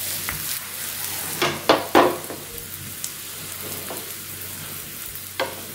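Stuffed wheat aloo paratha sizzling in cooking oil on a hot tawa, a steady frying hiss, as a wooden spatula presses and moves it. A few short louder scrapes come about a second and a half to two seconds in, and another near the end.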